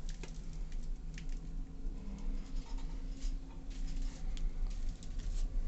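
Irregular crackling and ticking of burning wood pellets in the burn pot of a Waterland 18 kW water-jacket pellet fireplace, over the steady low hum of its fan, while the fire is still in its stabilisation phase after ignition.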